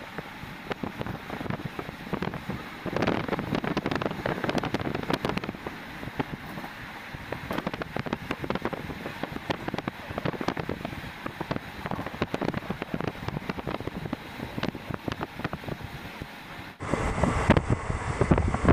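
Passenger train running, heard from on board: a steady rush of wind and running noise with frequent short knocks. About 17 s in, it cuts to a louder stretch.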